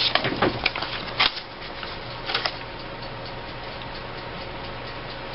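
Paper cutouts rustling and tapping against the table a few times in the first couple of seconds, then only a steady background hum.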